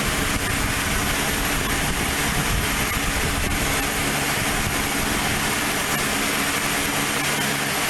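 Airplane engine running steadily, a constant hum over an even rush of noise.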